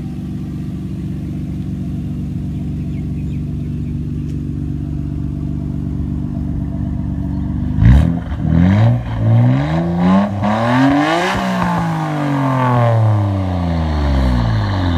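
Nissan Skyline GT-R R34's RB26DETT twin-turbo straight-six idling steadily, then about eight seconds in revved in a series of quick blips that rise and fall in pitch. The last rev climbs higher and winds down slowly near the end.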